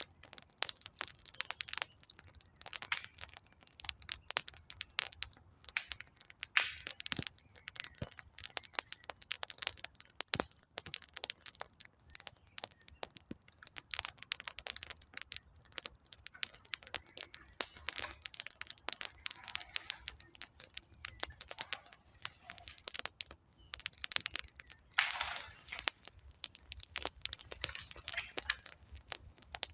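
Wood campfire crackling, with dense irregular snaps and pops throughout and a few sharper, louder cracks.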